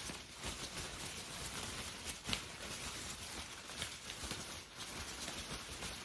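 Rain pattering steadily, a dense hiss of drops with scattered sharper drop ticks, one standing out about two seconds in.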